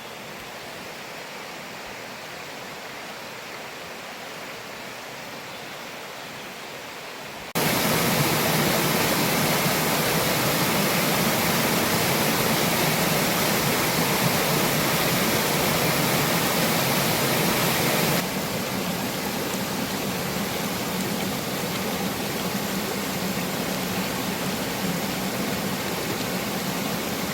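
Rushing water of a mountain valley stream and waterfall, a steady hiss-like rush; it suddenly gets much louder about a quarter of the way in and drops back somewhat about two-thirds of the way through.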